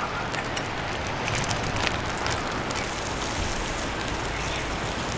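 Beef fat sizzling on a fire-pit grill: a steady hiss with scattered sharp crackles and pops.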